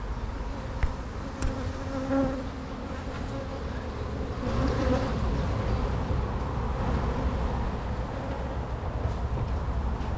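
Honey bees buzzing in and around an opened hive, the steady hum of a large colony with its pitch wavering slightly.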